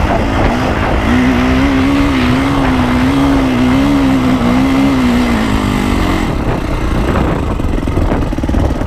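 Dirt bike engine running under throttle, its pitch rising and falling as the revs change. After about six seconds the note turns rougher and lower.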